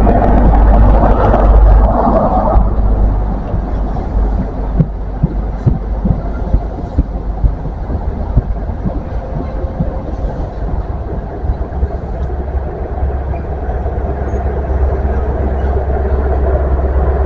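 Diesel train at the station platform, a steady low engine rumble that eases a few seconds in, with a scatter of sharp clicks from the train after that.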